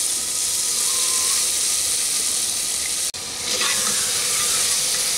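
Washed toor dal sizzling as it fries in hot oil and spice paste in a pressure cooker, a steady hiss. In the second half a ladle stirs it, scraping through the dal against the pot.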